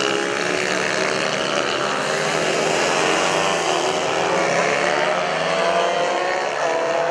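Several small mini bike racing engines running together at high revs, their overlapping pitches slowly rising as the bikes accelerate.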